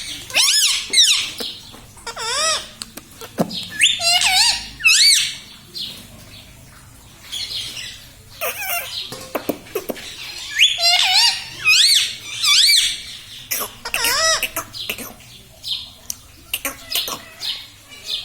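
Indian ringneck parrot calling and chattering in repeated bursts of short, high calls that bend up and down in pitch, with brief pauses between the bursts.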